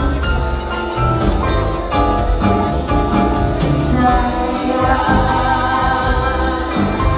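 Live band playing a pop song between sung lines, with a steady hi-hat beat, and a cymbal wash a little past halfway.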